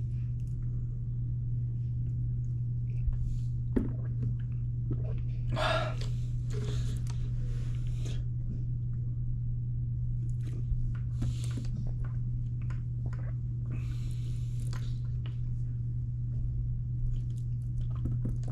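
Steady low hum with scattered brief soft noises of drinking and handling the plastic juice bottle.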